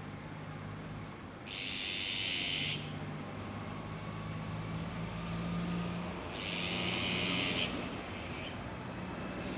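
Azure-winged magpies at the nest giving two harsh, rasping calls, each about a second long, the second about five seconds after the first, over a steady low hum.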